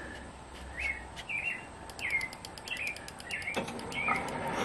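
A small bird chirping over and over, a short chirp about every half second. A little after three and a half seconds in, a steadier noise comes up underneath.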